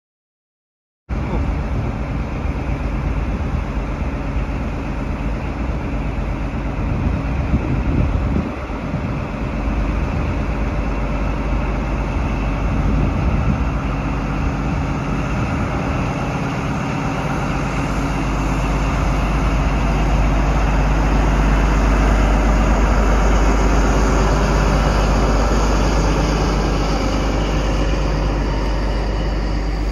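Class 43 HST diesel power car running as the train pulls past, followed by its coaches rolling by with a steady, deep rumble that grows stronger about halfway through. The sound starts abruptly about a second in.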